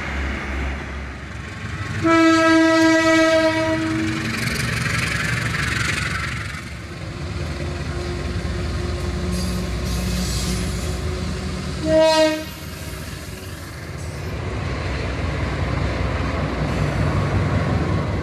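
Diesel trains passing, with engine and rail rumble throughout; a train horn sounds about two seconds in for about two seconds, and again in a short blast near the twelve-second mark.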